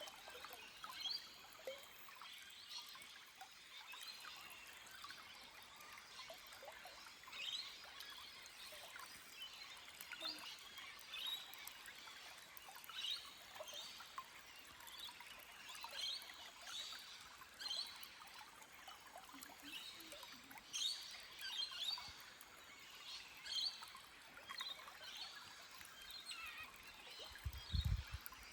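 Small birds chirping with many short, high calls over a faint, steady trickle of a stream running over rocks. A few low thumps come near the end.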